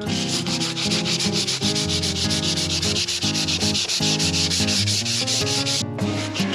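Sandpaper being rubbed over a surface in fast, even back-and-forth strokes, about eight a second, with a brief pause near the end before the strokes resume.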